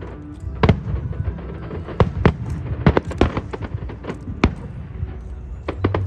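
Aerial fireworks bursting: a rapid, irregular string of sharp bangs over a low rumble.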